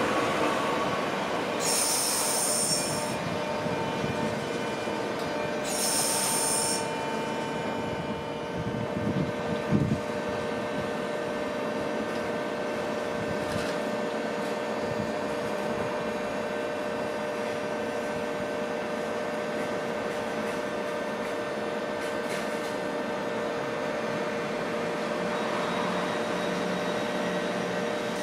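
Rail noise from an electric train pulling away and then a tram departing, with steady squealing tones from the wheels held throughout. Two short high-pitched bursts come about two and six seconds in, and a brief knock about ten seconds in.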